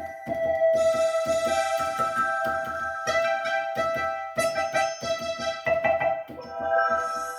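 Yamaha PSR-530 keyboard playing a melody of held notes in one of its preset voices, over quick, regular percussive ticks several times a second.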